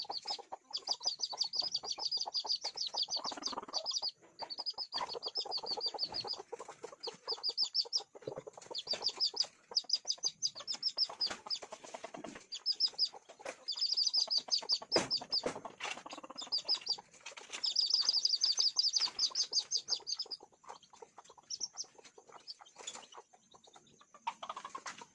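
Chicks peeping in fast, high-pitched runs over lower clucking from chickens. The peeping thins out near the end.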